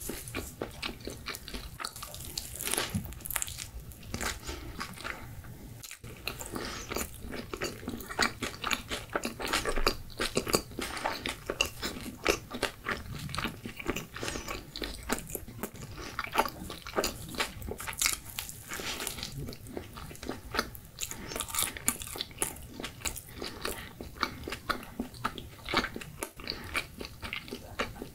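Close-miked chewing and biting of pizza, a dense run of short, irregular mouth clicks several times a second.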